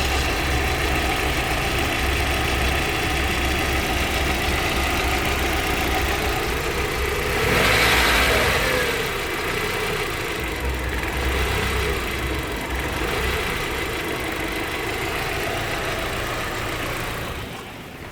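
1996 Audi A4's 1.8 ADR 20-valve four-cylinder engine idling, revved once about eight seconds in; after the throttle is released the revs fall and waver up and down a few times before settling, the rpm hunting the owner complains of. The sound drops in level near the end.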